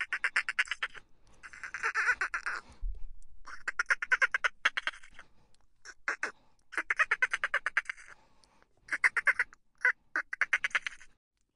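Dolphins chattering: a string of buzzy pulsed calls, each a rapid train of clicks lasting up to about a second, with short gaps between.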